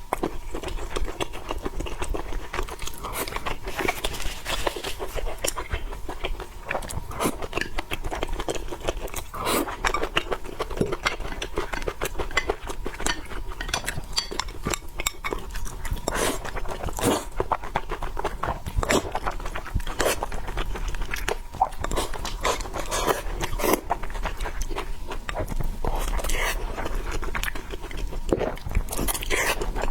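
Close-up eating sounds: chewing and biting food with wet mouth clicks and smacks, an irregular run of short sounds, with now and then a scrape or clink of cutlery on a dish.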